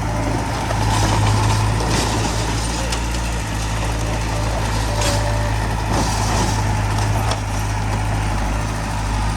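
Heavy diesel earthmoving machinery running steadily with a deep hum, with a few short sharp clanks and hisses on top.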